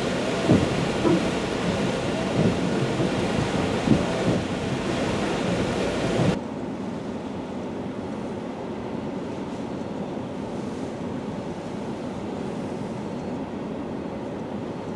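Tropical-storm wind blowing hard with rushing surf or rain noise and some whistling in the gusts; about six seconds in it cuts abruptly to a quieter, duller rumble of wind.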